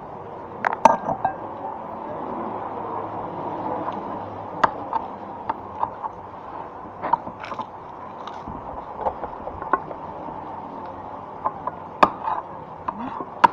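Scattered clinks and taps of cutlery and dishes during a meal, over a steady background murmur.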